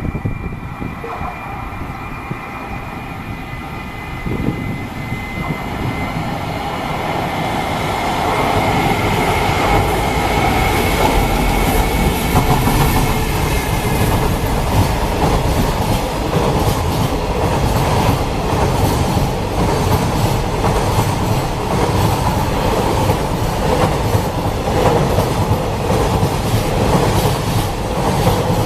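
JR Freight EF210 electric locomotive hauling a long train of Koki container wagons past at speed. A high whine fades out over the first dozen seconds. The sound grows louder about eight seconds in, then holds as a steady rumble with continuous wheel clatter over the rail joints.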